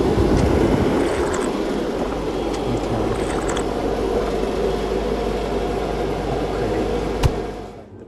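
Steady whooshing hum of the bar cooler's evaporator fan running, with one sharp knock about seven seconds in; the sound drops away near the end.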